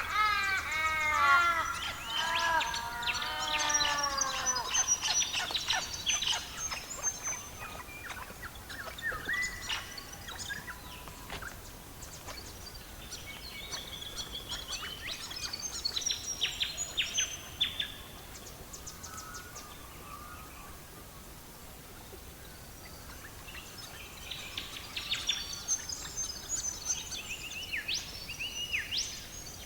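Birds calling. A quick run of repeated arching calls comes in the first few seconds, then high chirps and trills come and go, over a faint steady hiss.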